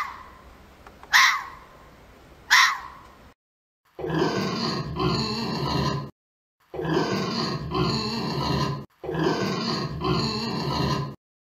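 Red fox giving short sharp barks, three of them about 1.3 s apart. After a brief silence, wild boar grunt in three long bouts of about two seconds each.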